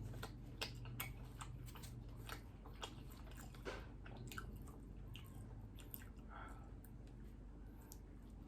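Close-miked chewing of a mouthful of tocino (sweet cured pork), with many small, irregular wet mouth clicks and smacks.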